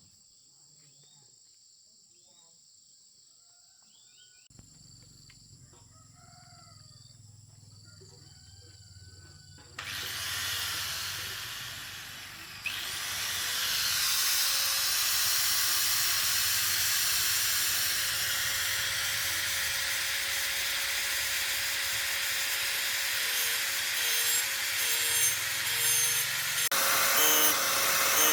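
A power tool starts about ten seconds in and runs steadily with a loud hissing grind, getting louder a few seconds later, under a faint low hum. Before that, only a few faint chirps.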